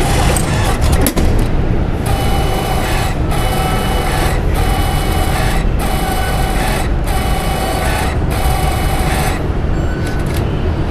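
Ticket vending machine's mechanism whirring in repeated cycles, each about a second long with a short pause between, over a steady low rumble, as it dispenses tickets.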